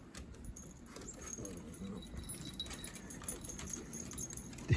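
Excited dogs moving about close by, with faint jingling and light clicks and a brief soft whine about a second and a half in.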